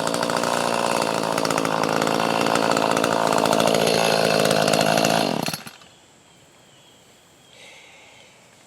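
Chainsaw running steadily at high speed while cutting firewood, then its pitch drops and it stops about five and a half seconds in.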